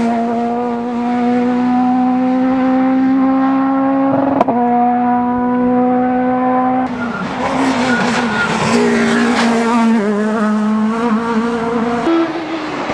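Rally car engine held at high revs, its note steady and rising slightly in pitch as the car pulls away. About seven seconds in it cuts abruptly to rougher engine and tyre noise from a car at lower, uneven revs.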